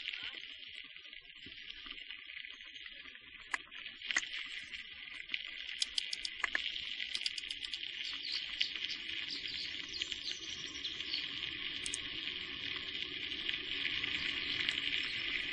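Steady high-pitched insect chirring, with scattered sharp clicks and knocks through the middle and a low rumble that grows stronger in the second half.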